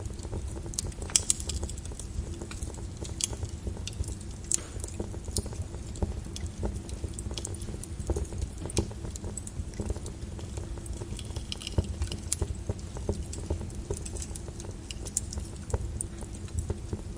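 Lava flow crackling and popping: irregular sharp cracks and ticks over a steady low rumble, with the loudest crack about a second in.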